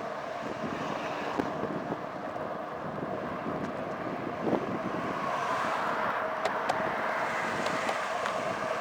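Wind rushing over the microphone and steady road noise while riding, with a constant hum and a few faint clicks.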